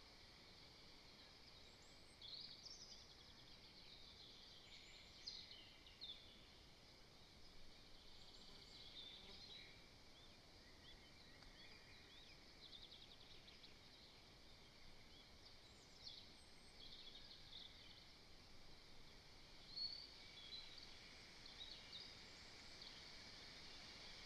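Faint bird calls: many short, high chirps and brief trills, scattered irregularly, over a steady faint hiss.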